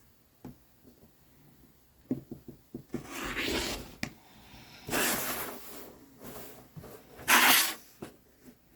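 Rotary cutter slicing through fabric on a cutting mat: three rasping strokes, the last the loudest, after a few light clicks as the ruler and fabric are set in place.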